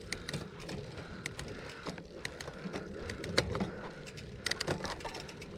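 Mountain bike drivetrain being spun by hand: the chain running through the rear derailleur and its jockey wheel with irregular light ticks and clicks, a check of a derailleur bent by a stick caught in it.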